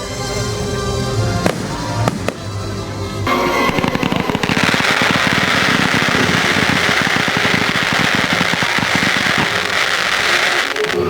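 Fireworks display set to music: a couple of sharp bangs over the music, then about three seconds in a dense crackling of many small bursts starts and builds into a loud, steady crackle that stops just before the end.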